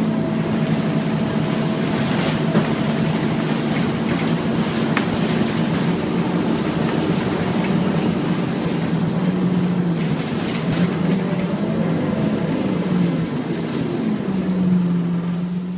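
Scania N230UD Omnicity double-decker bus running under way, its engine and six-speed ZF gearbox giving a steady low drone. The pitch dips around the middle and rises again near the end, with a few short rattles.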